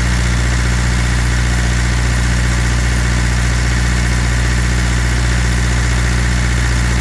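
Water truck's engine idling with a steady, unchanging hum.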